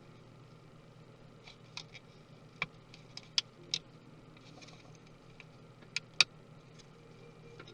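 Irregular sharp clicks and taps of small tools and parts against a MacBook Pro's casing and internals during disassembly, over a faint steady low hum. The loudest tap comes about six seconds in.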